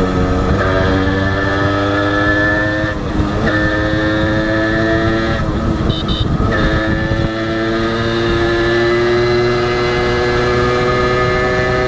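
Honda H100S single-cylinder two-stroke motorcycle engine running under way, its pitch climbing as it accelerates. The pitch drops briefly at gear changes about half a second, three seconds and six seconds in, then rises steadily.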